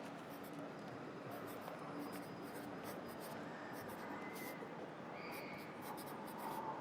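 Pencil writing on paper, a run of short scratching strokes, over a steady hum of city traffic heard from inside an apartment. A few faint brief higher tones rise out of the hum in the second half.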